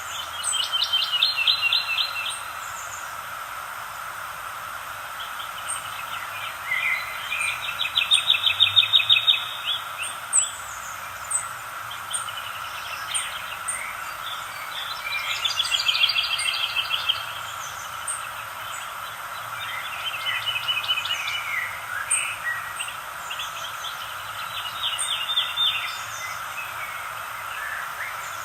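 Songbirds singing: a phrase ending in a rapid trill repeats about every five to six seconds, with short high chirps between, over a steady hiss of background noise.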